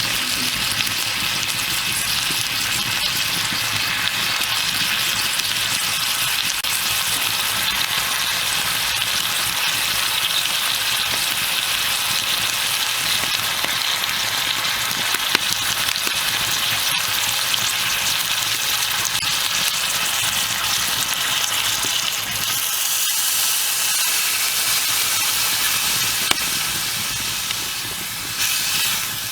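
Food frying in a pan over a fire, with a steady sizzle.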